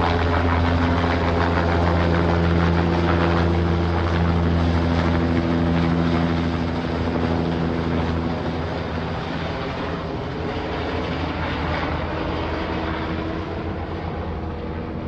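Bell 206 helicopter flying away after takeoff: a steady low drone of turbine and rotor with several humming tones, fading gradually over the second half.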